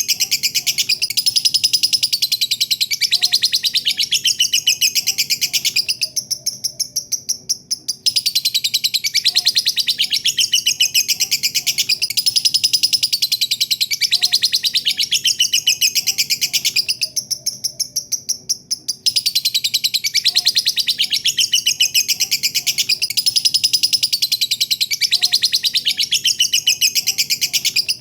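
Lovebird singing a long 'ngekek': a rapid, continuous chatter of fast high chirps, breaking off twice for about two seconds, about six and seventeen seconds in.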